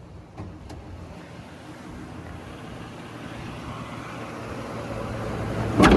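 Ford 6.8-litre V10 gasoline engine idling steadily, getting louder toward the end. Two light clicks under a second in and a sharp knock right at the end.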